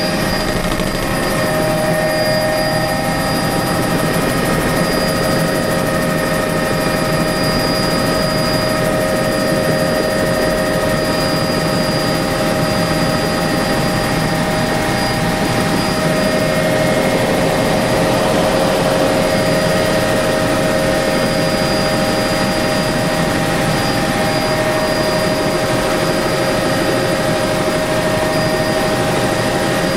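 Helicopter in flight, heard from inside the cabin: a loud, steady engine and rotor noise with several constant high whines over it, unchanging throughout.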